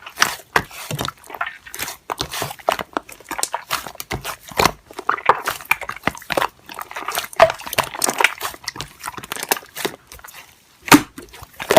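Slime being squished and pressed by hand, a dense, irregular run of sticky clicks and pops, with one sharper click about eleven seconds in.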